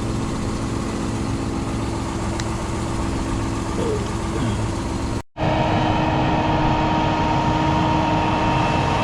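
Farm tractor engine running steadily. It briefly cuts out a little past halfway, then comes back louder with a steady whine.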